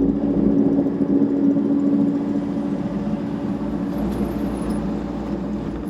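Kubota KX121-3 mini excavator's diesel engine running at a steady speed, a constant hum with a steady tone.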